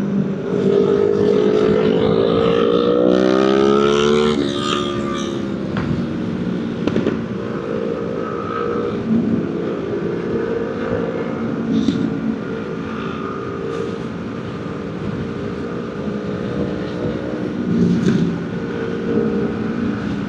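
Motorcycle engine accelerating, its pitch rising for about four seconds until a gear change drops it sharply, then running at a steady cruising speed with small rises and falls.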